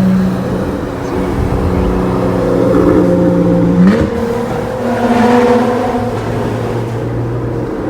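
Porsche 911 Carrera S (991.1) flat-six engine running through an Armytrix aftermarket exhaust under way at highway speed. Its note climbs slowly in pitch, then jumps up sharply with a short crack about four seconds in before settling.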